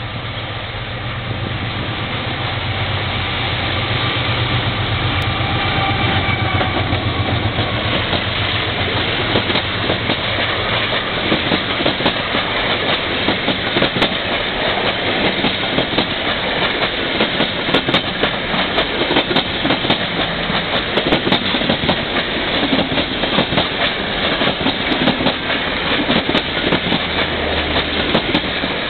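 ALCo RSD-16 diesel locomotive approaching and passing with its V12 engine droning, growing louder over the first few seconds. Passenger coaches then roll by close up with rapid clickety-clack of wheels over rail joints.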